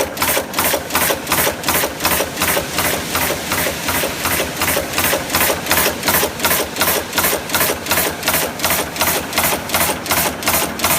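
Automatic cold heading machine running, its ram striking the metal blanks in a steady, even rhythm of sharp blows, about three to four a second.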